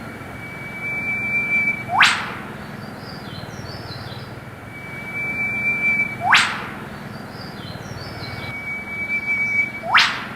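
A bird calls three times, about four seconds apart. Each call is a long held whistle followed by a sharp, quickly rising whip-crack note, with faint chirps between the calls.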